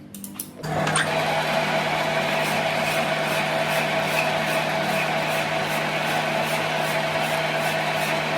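A workshop machine's electric motor switches on less than a second in and runs steadily with a constant hum, with a faint tick about twice a second.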